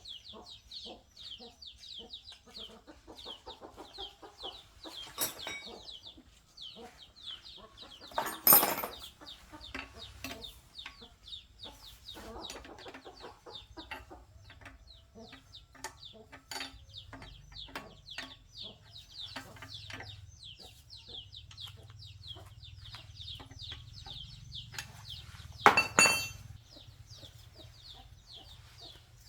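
Chicks peeping continuously, many short high falling calls overlapping, with scattered light clicks and taps. Two loud sharp knocks stand out, about a third of the way in and again near the end.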